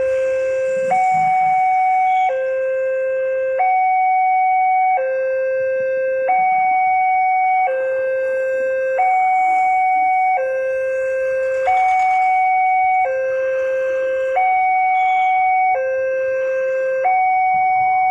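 Railway level-crossing warning alarm sounding a steady electronic two-tone hi-lo signal, switching between a higher and a lower tone about every second and a half, the warning that a train is approaching and the barrier is down.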